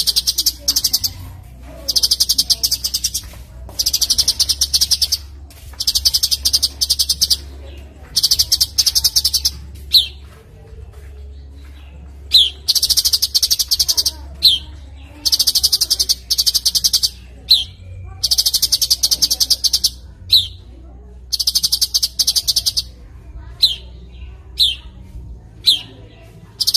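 A songbird repeats a high, very rapid buzzing trill, each about a second long, several times over. Between the trills and after them come single short, sharp notes that slide down. A faint low hum lies under the song.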